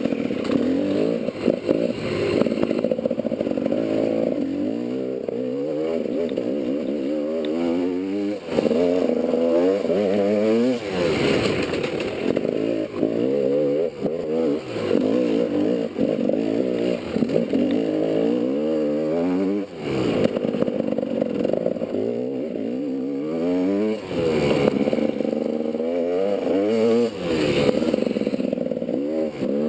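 GasGas enduro motorcycle engine ridden hard on a dirt trail, the revs rising and falling again and again as the throttle is opened and shut through the turns.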